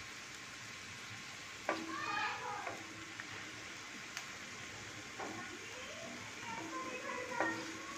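Mutton liver frying in oil on a tawa, a steady soft sizzle, while a wooden spatula stirs it and scrapes across the pan, with a sharp tick about four seconds in.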